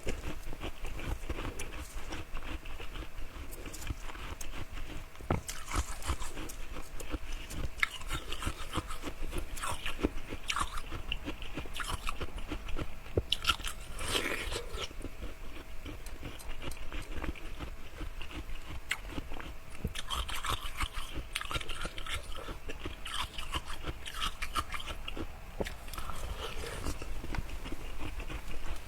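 Ice being bitten and chewed close to the microphone: continuous irregular crunching with many sharp cracks.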